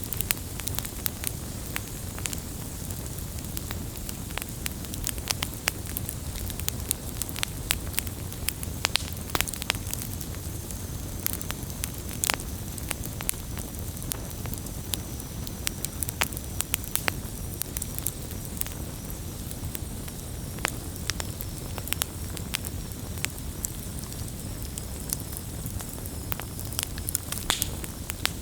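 Campfire crackling, with frequent sharp, irregular pops over a steady low rumble of burning wood.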